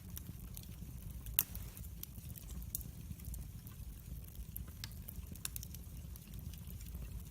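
Wood fire burning in a fireplace, crackling with scattered sharp pops over a low steady rumble of the flames; the loudest pop comes about a second and a half in.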